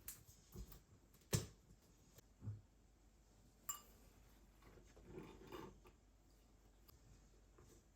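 Quiet handling sounds: a few soft knocks and a light click with a brief ring, then a short rustle.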